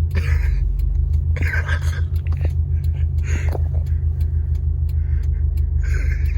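Steady low rumble of a car on the move, heard from inside the cabin, with a few faint short sounds on top.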